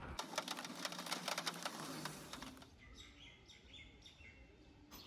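Rain pattering in dense fast drops, cutting off abruptly about two and a half seconds in. After that, a few short high bird chirps over a quiet background.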